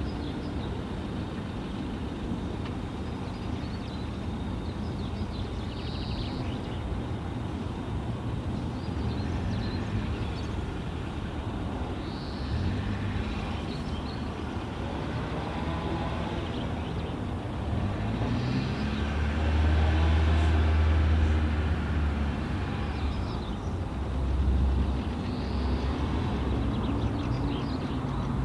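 Steady low rumble of a distant vehicle's engine that swells to its loudest a little past the middle as it passes, then eases off. Through it a single short high bird call repeats about every six seconds.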